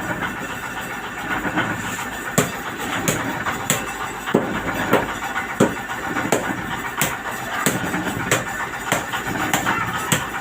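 An engine running steadily, with sharp knocks repeating evenly about every two-thirds of a second.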